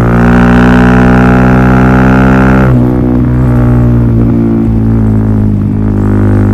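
Suzuki DR-Z400SM single-cylinder four-stroke engine running through a Yoshimura full exhaust system at a steady, droning pitch. About two and a half seconds in the note softens and loses its bite, then holds steady again.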